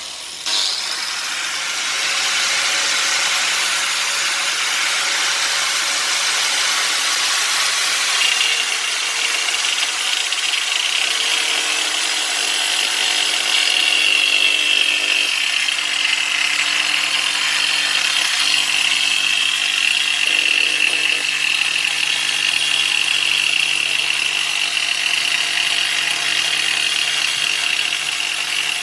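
Angle grinder with a thin 5-inch diamond blade running steadily as it cuts into toughened glass, with a high whine that sets in about eight seconds in.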